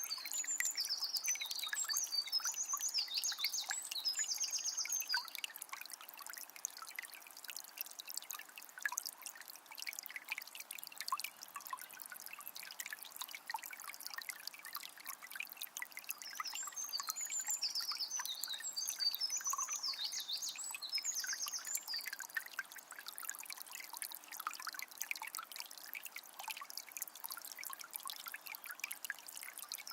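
Water of a small spring trickling and splashing steadily. A bird sings twice over it, a burst of rapid high notes lasting a few seconds, once at the start and again about halfway through.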